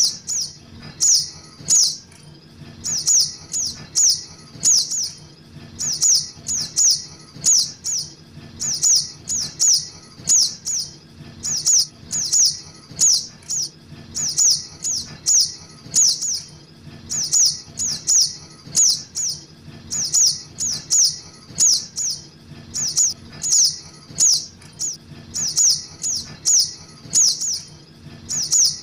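Juvenile little spiderhunter (sogok ontong) calls: sharp, high chirps in quick runs of two to four, repeating about once a second as a looped bird-trapping lure call.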